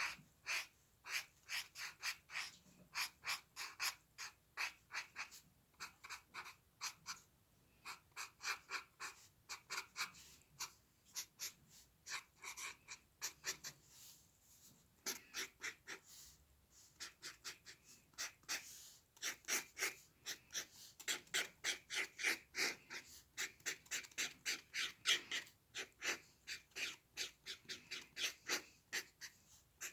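Short, quick strokes of a drawing tool scratching on paper, several a second in busy runs with brief pauses between them.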